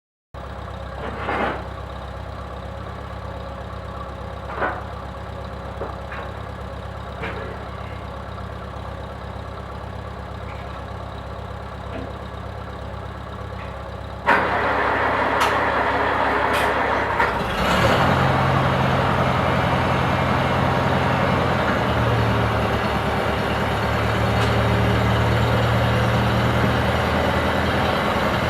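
Small four-cylinder Farmall tractor engine running at a steady idle, with a few sharp clanks. About halfway through it suddenly gets much louder, as if throttled up, and keeps running at the higher speed with a steady note.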